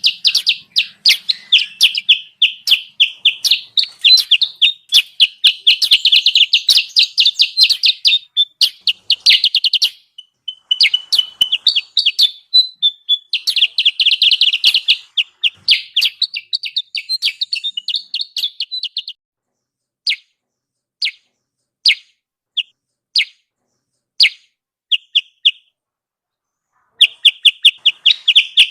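Kutilang sutra (bulbul) lure-call recording: fast, excited runs of sharp chirps. Partway through, the runs thin out into a series of single, spaced notes, and the rapid chatter picks up again near the end.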